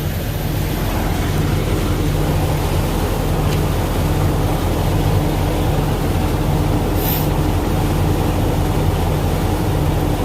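Semi-truck's diesel engine idling, a steady low hum heard inside the cab.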